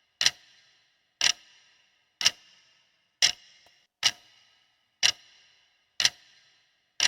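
Clock ticking steadily once a second, each tick sharp with a short ringing tail: a countdown timer running through the answer time of a quiz question.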